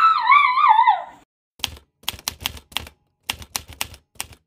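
A short warbling high-pitched sound lasting about a second, then a quick run of about a dozen typewriter key clacks, irregularly spaced.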